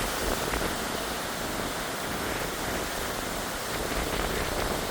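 Hurricane wind and rain: a steady rushing noise, with wind buffeting the microphone in low rumbles.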